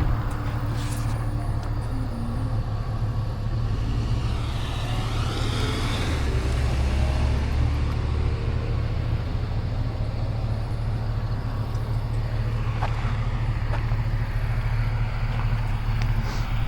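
Road vehicle noise: a steady low engine hum throughout, with a vehicle passing by, swelling and fading, about four to seven seconds in. A single knock right at the start.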